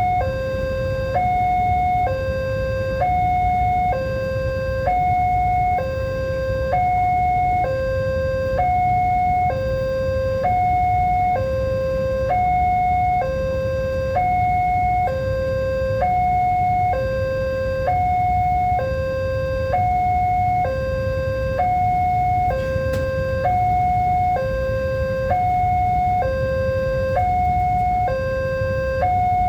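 Railway level-crossing warning alarm sounding a high and a low electronic tone in turn, about one high-low cycle every 1.6 seconds. This is the warning that a train is approaching and the barrier is down. A steady low rumble lies underneath.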